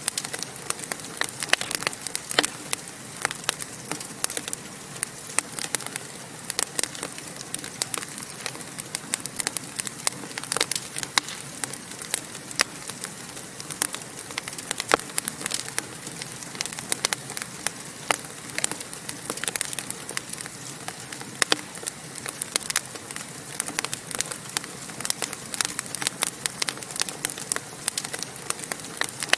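Wood fire burning in a fireplace: a steady hiss of flames with frequent sharp, irregular crackles and pops.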